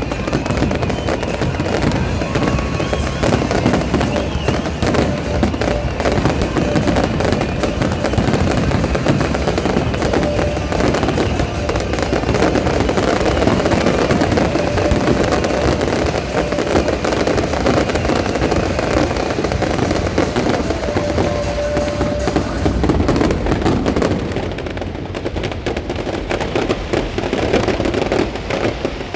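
Fireworks display: a dense, continuous barrage of bangs and crackles with music playing underneath, thinning out and getting quieter about three-quarters of the way through.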